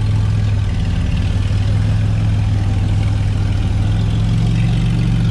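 Off-road 4x4's engine idling steadily, a low even hum.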